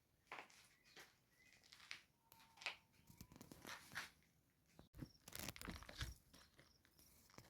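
Faint rustling and crunching: a string of short scuffs and crackles that grows louder and busier after a sudden cut about five seconds in.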